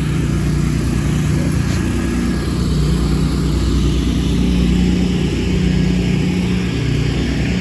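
An engine running steadily, a low drone whose pitch shifts slightly now and then.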